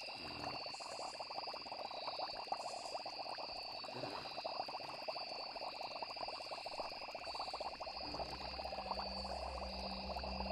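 Night nature ambience: a dense chorus of frogs clicking and croaking over steady high trilling of crickets. A low, droning musical tone comes in near the end.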